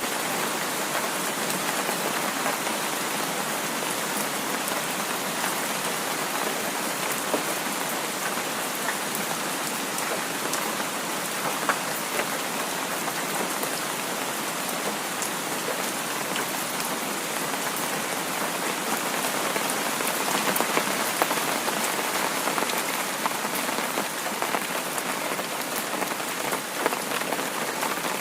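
Heavy rain falling steadily, with scattered sharper drop ticks through the steady hiss; it grows a little louder about twenty seconds in.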